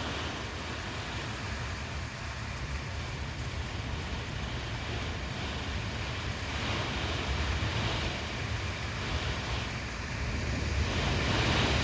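Hurricane-force wind gusting, with a steady rush and a heavy low rumble of wind buffeting the microphone, growing louder toward the end.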